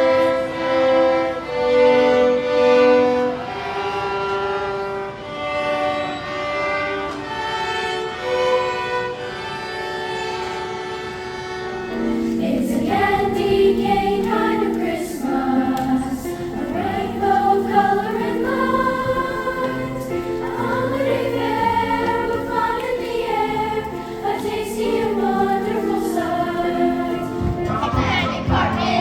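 Music: held, slowly changing chords for the first part, then a choir singing from about twelve seconds in.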